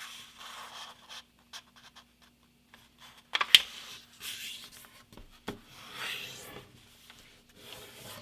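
A sheet of A4 printer paper being folded and creased by hand: soft rustling and sliding swishes, with one sharp click about three and a half seconds in and a smaller one about two seconds later.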